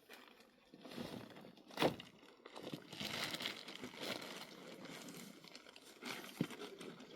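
Irregular rustling and crinkling handling noises, with one sharp knock about two seconds in.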